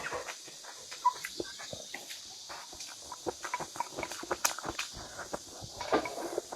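Close-miked chewing of food: irregular wet clicks and crunches, several a second, with a few louder snaps.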